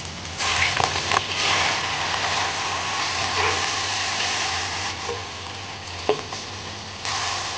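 Cut crab pieces sizzling in hot oil in a wok as they are stir-fried. The sizzle jumps up about half a second in, and there are a few sharp clicks of the cooking utensil against the wok.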